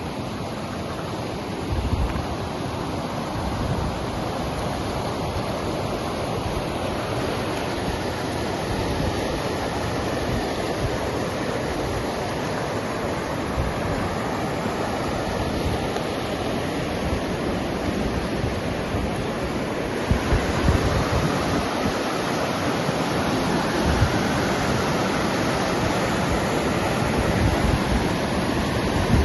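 Steady rushing of water, with wind buffeting the microphone now and then as low thumps.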